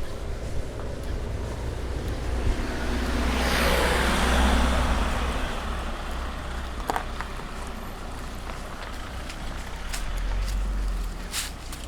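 A car driving past, its tyre and engine noise swelling to a peak about four seconds in and then fading away.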